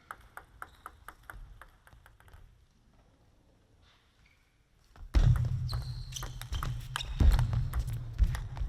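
Table tennis ball clicking in a quick run of light bounces, about four a second, for the first couple of seconds. About five seconds in, loud arena noise full of dense sharp clacks starts suddenly and carries on.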